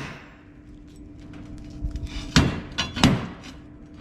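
Freshly cut steel pieces knocking and clanking as they are handled and set down: a few light clicks, then two loud knocks about half a second apart, each ringing briefly, over a faint steady hum.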